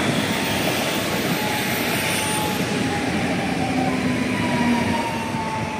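Pesa Elf electric multiple unit running through the station, a steady loud rumble of wheels on rail with a faint whine that slowly falls in pitch.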